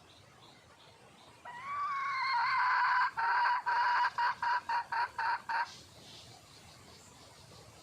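Red junglefowl hen calling for a mate: one drawn-out note, then a string of about eight short notes that come quicker toward the end.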